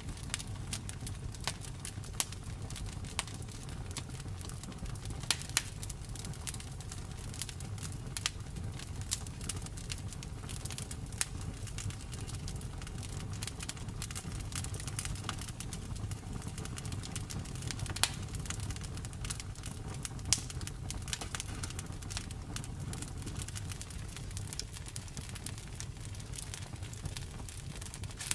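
Wood fire in a fireplace crackling, with many small snaps and a few louder pops over a steady low rumble of the flames.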